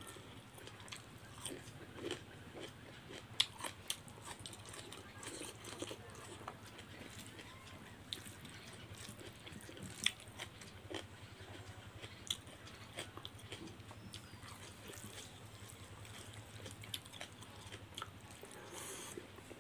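Close-miked chewing and biting of rice and curry eaten by hand, with scattered small sharp clicks, the loudest about three and ten seconds in. A faint steady low hum underneath.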